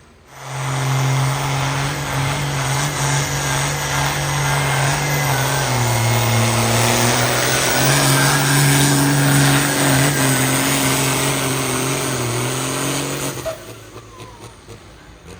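A pulling vehicle's engine running hard under load at high revs, its pitch holding fairly steady, then cutting off suddenly near the end.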